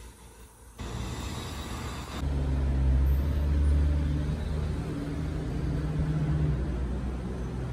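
Steady low rumble and hum of a CTA 'L' rapid-transit train approaching a station platform. It comes in suddenly about two seconds in, after softer street traffic noise.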